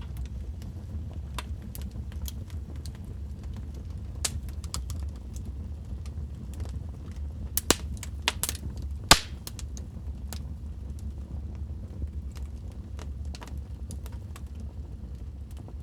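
Wood fire crackling in a fireplace: a steady low rumble of burning with scattered sharp pops and snaps. The loudest cluster of pops comes a little past halfway.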